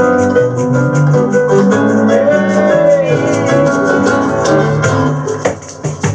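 Live bossa nova band playing an instrumental passage: guitar, piano and bass over hand percussion with a steady, quick shaker rhythm. About five seconds in the playing thins out and gets quieter, leaving sparser percussion hits.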